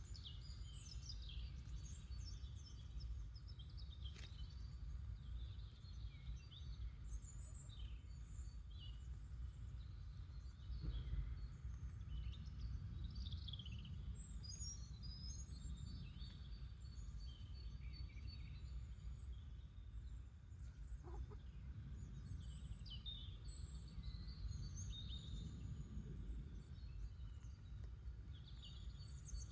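Small birds chirping and twittering, many short high calls coming and going, over a steady low background rumble.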